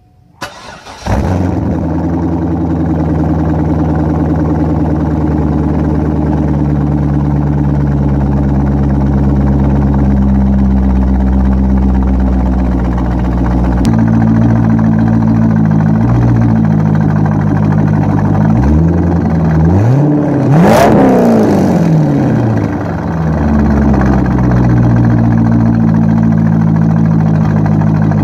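C5 Corvette's LS1 V8, straight-piped with the mufflers deleted, cranking and catching about a second in, then idling fast; the idle steps down about halfway through. Near the two-thirds mark it is revved a few times, the pitch rising and falling, the biggest rev the loudest moment, before it settles back to a steady idle.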